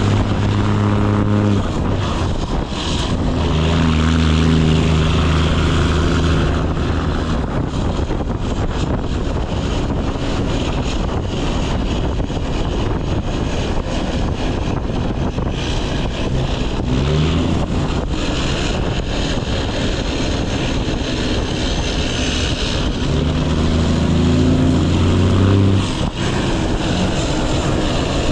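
Straight-piped Cummins ISX diesel in a Kenworth W900 truck running loud under load, its exhaust note changing pitch several times, with a rising pull in the middle and a strong steady drone again near the end. A constant rush of road and wind noise runs underneath.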